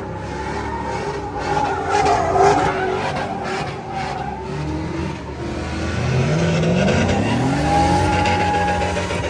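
Truck engine revving, its pitch climbing about six seconds in, with tires squealing.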